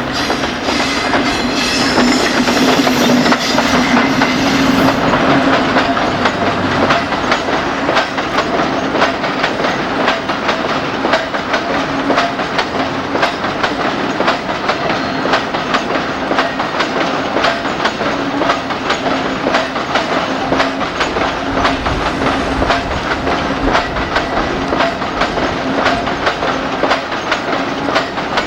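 A freight train rolling past close by: its wagon wheels click rhythmically over rail joints in a long steady run, over a steady hum that is loudest in the first few seconds.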